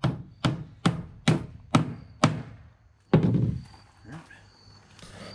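Claw hammer knocking a small wooden cleat tight against a plywood form: six sharp strikes, a little over two a second, followed about three seconds in by a single duller thud.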